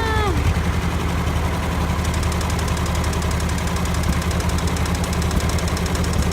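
Old tractor engine running steadily after a hard start, with an even, rapid firing beat. From about two seconds in, a fast, light ticking is added.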